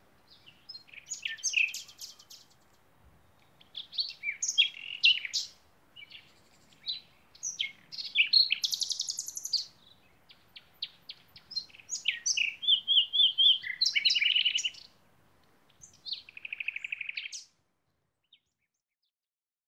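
Songbirds singing: phrases of short high chirps and trills with brief pauses between them, cutting off shortly before the end.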